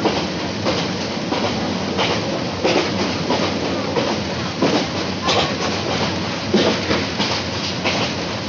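Passenger train running at speed, heard from an open window of the coach: a steady rush of running noise with the wheels clacking over rail joints about every two thirds of a second.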